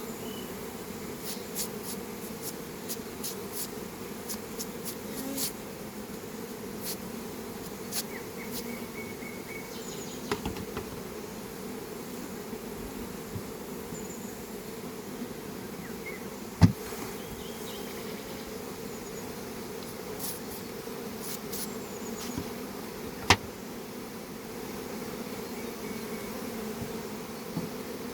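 Honeybees buzzing steadily in a dense, low hum around an opened hive. Scattered sharp clicks run through it, with two louder knocks about two-thirds of the way in and again near the end.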